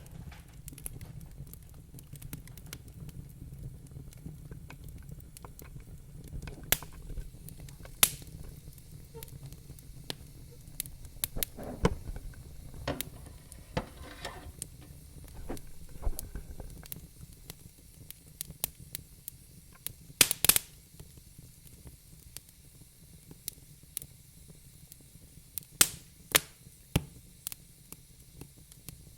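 Wood fire burning in a fireplace: a low rumble of flames with irregular sharp crackles and pops, a few of them louder, including a quick pair about twenty seconds in.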